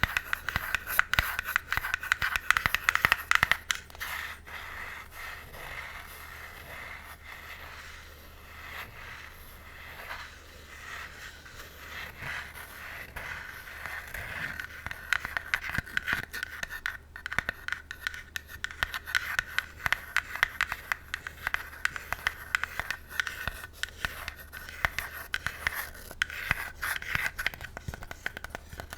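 Long artificial fingernails scratching and tapping on a pink box, picked up close on a bare Blue Yeti microphone. Quick clicking taps for the first few seconds give way to smoother scraping, then taps and scratches pick up again past the middle.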